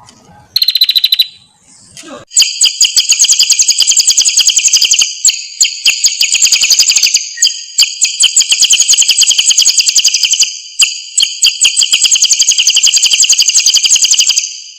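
A small songbird singing: a short trill, then a long, very rapid, high trill of repeated notes that stops suddenly.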